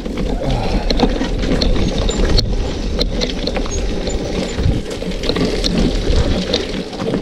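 Loaded touring bicycle clattering and rattling over a rough, bumpy descent, with steady tyre rumble and many small knocks.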